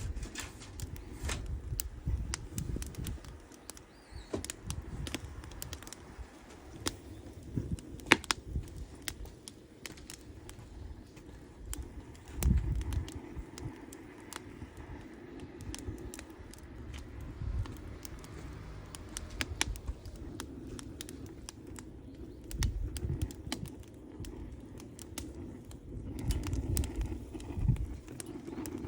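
Wood campfire crackling, with irregular sharp pops and snaps, over a low rumble that swells and fades every few seconds.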